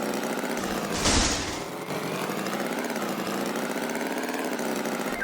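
An engine running steadily at idle, with a short hiss about a second in.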